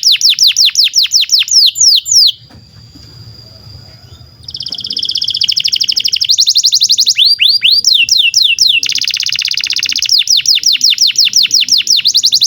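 Canary singing: fast rolling trills of repeated falling high notes, broken by a pause of about two seconds after the first two seconds, then picking up again in phrases that change speed.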